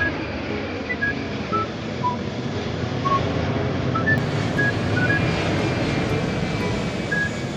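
Small motor running steadily with an even drone, with short high beeps at changing pitches scattered over it.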